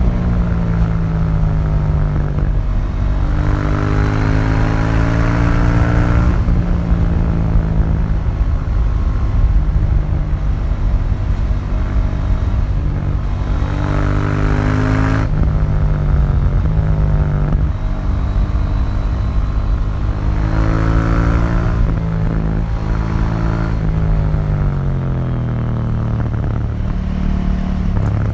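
KTM 790 Duke's parallel-twin engine through its stock exhaust on the move, the pitch repeatedly climbing as the bike accelerates and dropping away again at gear changes and on the throttle coming off.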